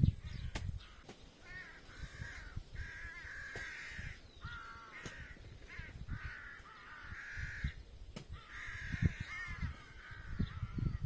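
Crows cawing, call after call. Dull low thumps now and then underneath come from a spade digging soil.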